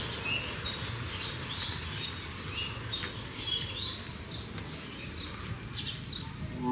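Small birds chirping, many short quick calls at irregular intervals, over steady outdoor background noise.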